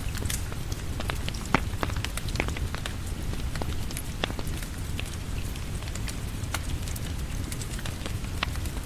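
Steady rain falling, with the sharp, scattered pops and crackles of a wood fire.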